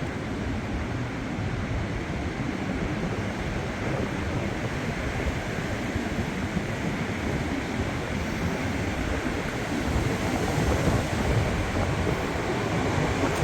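Strong storm wind blowing through trees, with gusts rushing over the microphone; the gusting grows louder in the second half.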